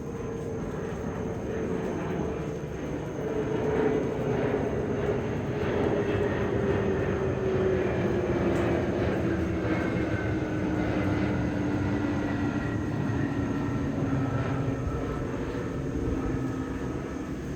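Boeing 767-300 jet airliner flying past, its twin turbofan engines giving a broad roar with whining tones that fall steadily in pitch as it passes. The sound swells about four seconds in and stays loud.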